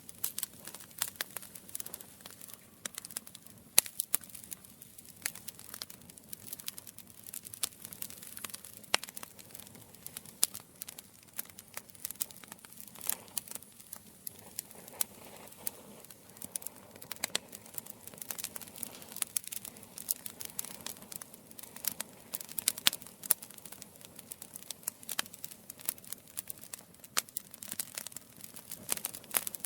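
Campfire burning with dense, continuous crackling and popping of the wood, a soft hiss of the flames beneath and an occasional louder pop.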